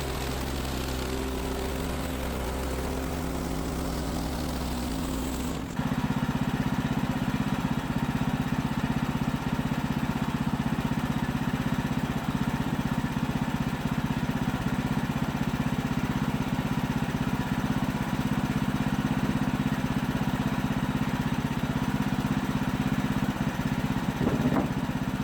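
Portable bandsaw sawmill's gas engine running steadily. About six seconds in it abruptly gets louder and changes pitch, then runs on evenly until it cuts off sharply at the end.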